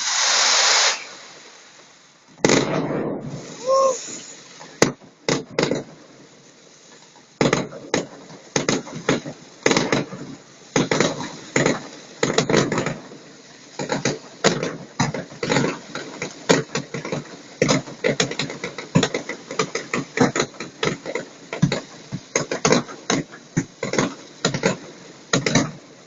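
Fireworks going off in a barrage. A loud blast comes right at the start and is followed by scattered bangs. From about seven seconds in there is a dense, rapid string of sharp cracks, several a second.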